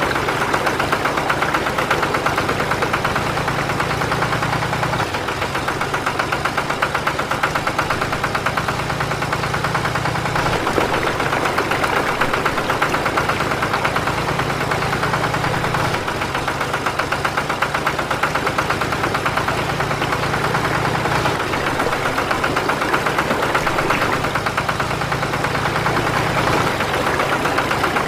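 A small motor running steadily with a fast, even rattling buzz.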